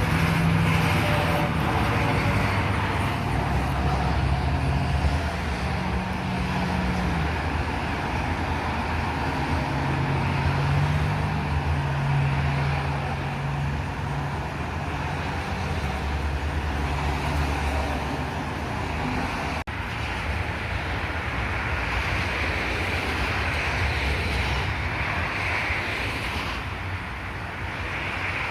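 Road traffic passing steadily, with the low engine drone of heavy trucks swelling and fading as they go by, loudest in the first few seconds and again around ten seconds in.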